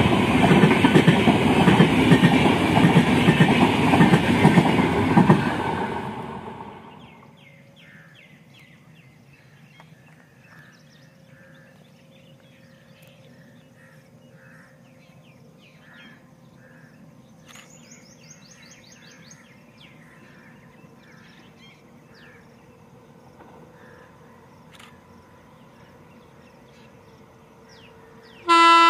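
Express train coaches rushing past at speed with loud wheel clatter, dying away about six seconds in. After a quiet stretch, a WAP-7 electric locomotive's horn sounds loudly near the end as the train approaches.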